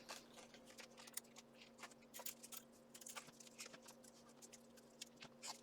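Faint, scattered light clicks and taps of articulated steel arm armor plates shifting as the arm is moved, over a low steady hum.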